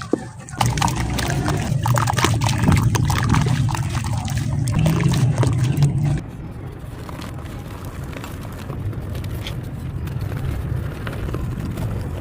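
Soft, dusty sand-cement chunks crumbled by hand close to the microphone: dense crunching and crackling over a heavy low rumble, which drops to quieter crumbling about six seconds in.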